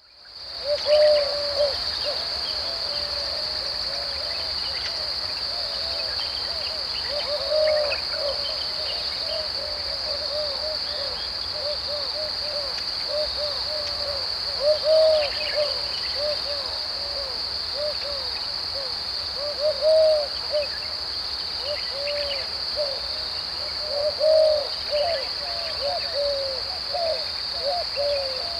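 Dry deciduous woodland ambience: a steady, high-pitched insect drone, with low hooting bird calls coming in short runs every few seconds.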